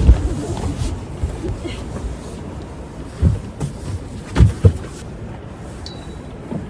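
Strong gusty wind buffeting the microphone: a steady low rumble broken by sudden low blasts, the strongest about four and a half seconds in.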